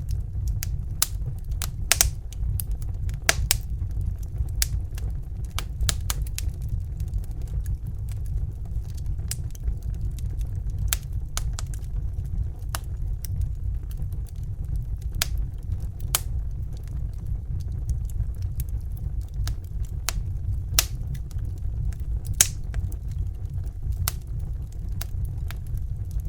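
Steady low rush of a Bunsen burner's gas flame, with the irregular sharp crackles and pops of a wood fire scattered over it, a few of them louder snaps.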